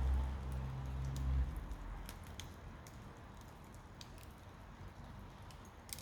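Campfire crackling with sparse, sharp pops. A low steady hum stops about a second and a half in.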